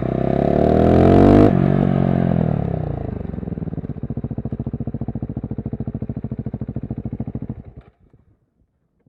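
KTM SMC-R 690 single-cylinder engine through a LeoVince One Evo slip-on exhaust with dB-killer, blipped once, rising for about a second and a half and then falling back to a lumpy idle with distinct single-cylinder pulses. It is shut off near the end.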